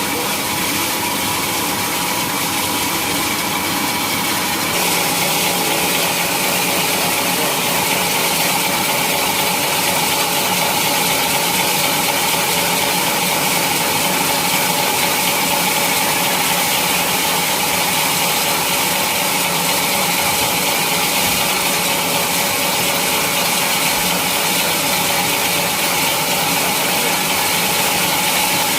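Sawmill machinery running steadily, a dense mechanical noise with constant tones in it. It gets louder about five seconds in.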